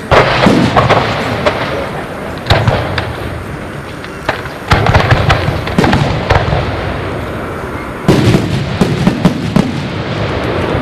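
Aerial fireworks bursting at a display: loud sharp bangs in clusters, several near the start, more around the middle and another cluster about eight seconds in, with crackling between them.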